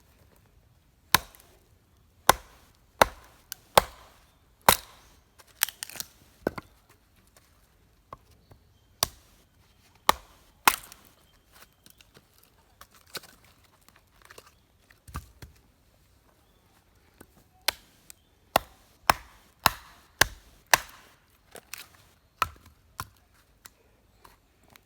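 Wood being chopped with a blade: a run of sharp, irregularly spaced strikes, thinning out in the middle and picking up again near the end.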